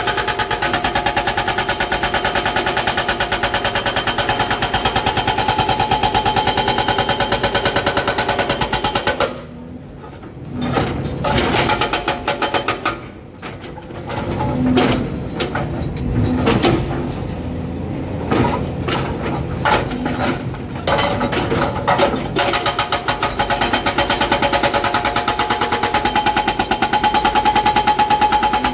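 Excavator-mounted hydraulic breaker hammering rock in a rapid, steady rhythm, heard from inside the operator's cab. It stops for about the middle dozen seconds, leaving the excavator's engine running with scattered knocks, then starts hammering again.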